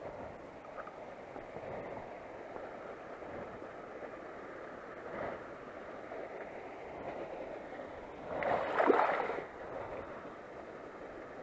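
Steady rushing of running water, with a louder noisy surge lasting about a second, some eight and a half seconds in.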